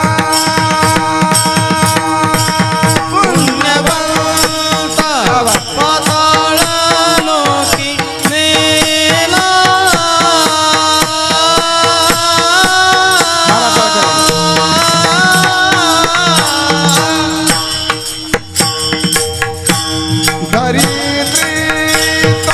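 Kirtan music: an abhang sung over tabla-style drumming, with held notes from a sustained melody instrument running underneath.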